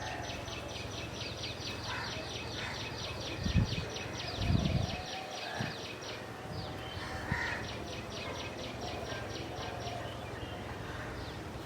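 A small bird giving a fast, dry, high trill of about eight notes a second for some six seconds, then a shorter run of the same about a second later. Two dull low thumps about halfway through are the loudest sounds.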